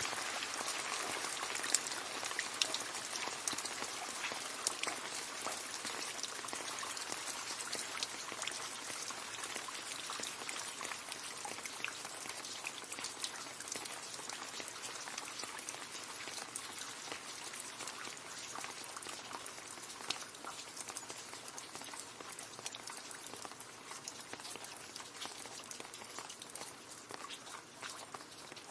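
Rain falling into a puddle: a dense patter of drops splashing on water, with many small individual plinks, slowly getting quieter.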